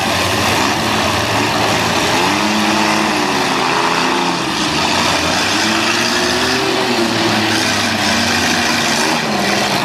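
Demolition derby cars' engines running and revving, the pitch rising and falling several times over a constant loud engine noise.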